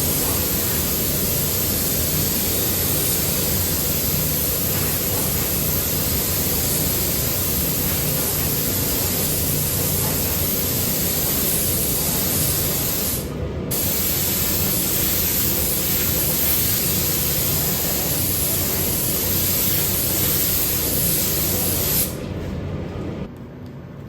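Paint spray gun hissing in a long continuous pass, released briefly about halfway through and then triggered again. The spraying stops near the end, leaving a fainter hiss and a low hum.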